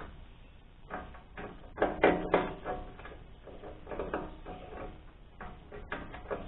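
A wrench clinking and rattling on a steel panel bolt, in irregular bursts of metal clicks, loudest about two seconds in. The bolt head is rounded off, so the tool slips on it.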